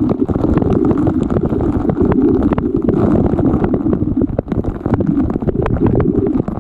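Rushing waterfall water and wind buffeting a GoPro's microphone: a loud, steady low rumble with many small crackles throughout.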